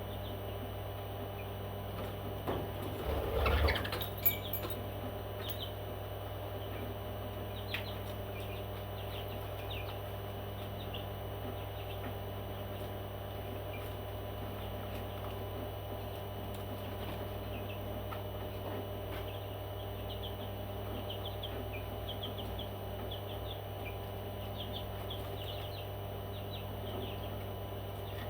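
A pet parrot chirping softly in short, repeated high notes, more often in the second half, with a brief fluttering rustle about three seconds in, over a steady low hum.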